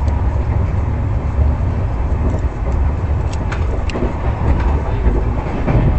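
Express train running, heard from inside the passenger coach: a steady low rumble with a faint steady tone, and a few short sharp clicks about three to four seconds in.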